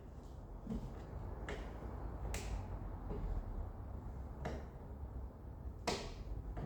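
Several sharp, separate metallic clicks from hand tools working on a car's rusty front suspension, about one every second or so, over a low steady hum.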